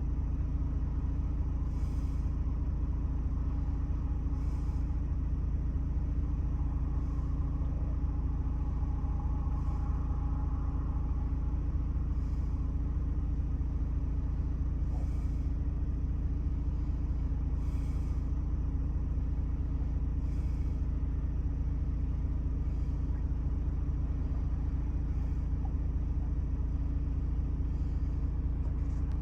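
2018 Ford Transit's 2.0-litre diesel engine idling steadily, running smoothly with no fault, with faint high ticks every two to three seconds.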